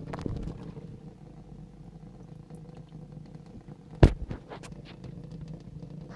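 A domestic cat purring steadily in a low hum. A single sharp knock comes about four seconds in.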